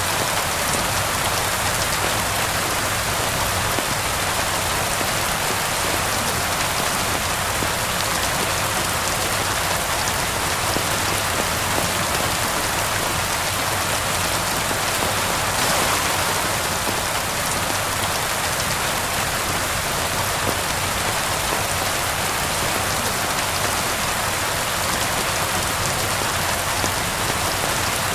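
Steady rain falling, an even hiss of many drops with a slight swell about halfway through.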